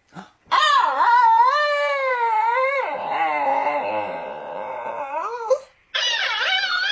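A dog howling and whining in one long, wavering cry that rises and falls in pitch. A second cry starts after a short break near the end.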